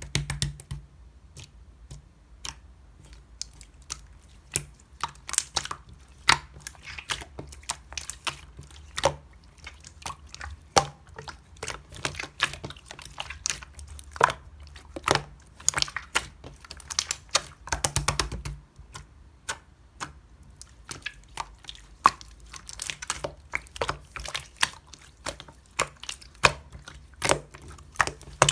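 Clear slime being squeezed and worked by hand, giving a run of irregular sharp clicks and pops.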